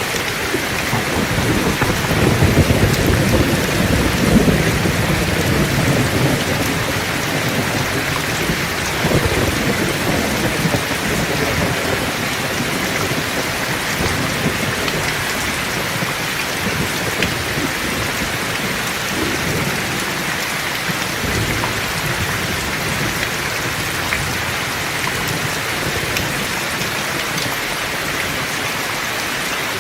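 Heavy rain falling steadily, with a low rumble of rolling thunder that swells a couple of seconds in and fades away over the next several seconds, and a fainter rumble later on.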